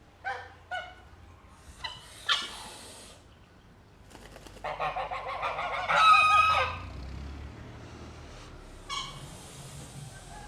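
Domestic poultry calling: a few short calls, then a louder, longer call of about two seconds, and one more short call near the end.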